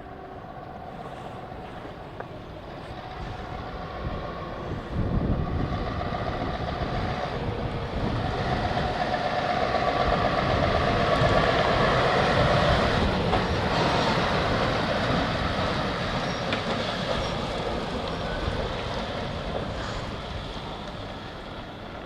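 Heavy truck driving past with engine noise and a rattling load; it grows louder to a peak about halfway through, then fades away.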